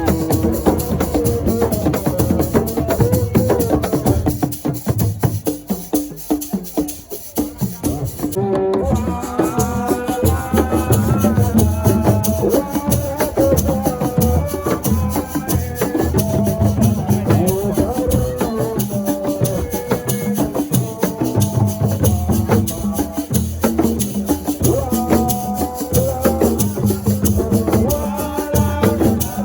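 Assiko music: fast, dense percussion with shaker rattles keeping a steady beat, with a melodic line coming in over it under a third of the way in.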